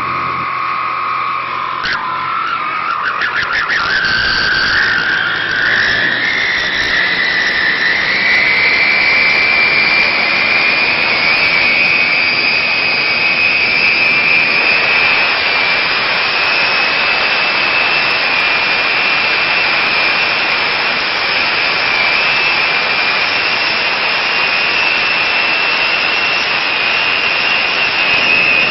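Fiat 640 tractor's diesel engine running under load with a whistling exhaust: a high, steady whine over the engine noise, rising in pitch over the first several seconds and then holding level as the tractor drives a rotavator.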